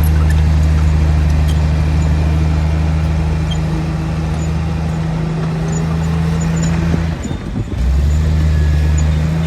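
Heavy earthmoving machine's diesel engine running with a steady low hum, briefly dipping about seven seconds in before picking up again.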